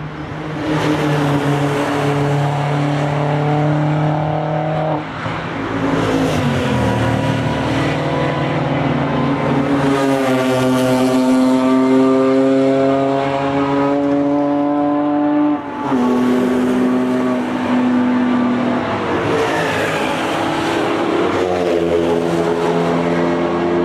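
Several cars driven hard on a race track, engines held at high revs. The engine note breaks and drops briefly about five seconds in and again near sixteen seconds, and towards the end two engine notes overlap.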